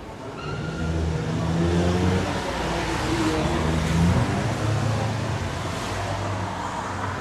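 A motor vehicle engine accelerating past on a city street, its pitch rising and falling as it revs, over steady traffic noise. There is a brief higher tone near the start.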